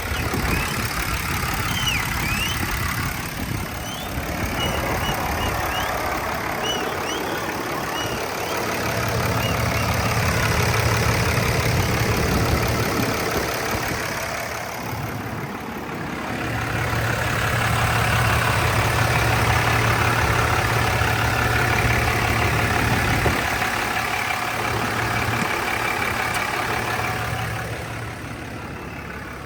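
A 2012 Ram 2500's 6.7-litre Cummins turbodiesel idling with the hood open. Its deep hum swells louder twice, about nine to thirteen seconds in and again from about sixteen to twenty-five seconds. A few faint high chirps come in the first several seconds.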